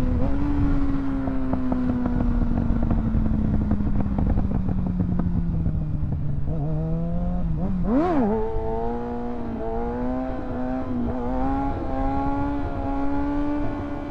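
Kawasaki 636 inline-four sport bike engine, its pitch slowly falling for about six seconds as it slows, then a sharp quick rev blip about eight seconds in, after which it holds a steady higher pitch. Wind noise rumbles underneath.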